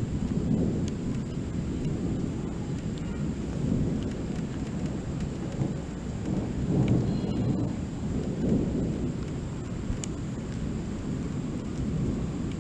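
Thunder rumbling continuously and deeply, swelling and fading several times.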